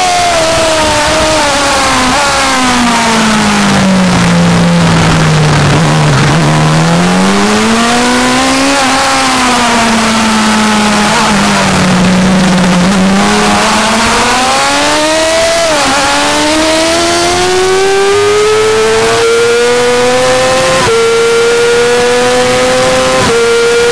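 2008 Yamaha R6's high-revving inline-four sport-bike engine, heard onboard over wind rush: the note falls through hard braking and downshifts, rises and falls once more through a slow corner, then climbs steadily under full throttle, with upshifts about three-quarters of the way through and again near the end.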